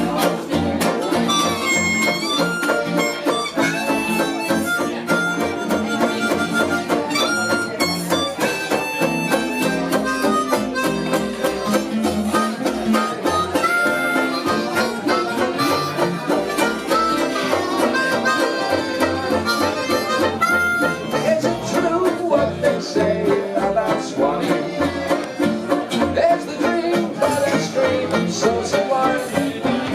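A small acoustic band playing an upbeat country-style tune with no singing, a held, sliding melody line over strummed strings and a regular bass beat.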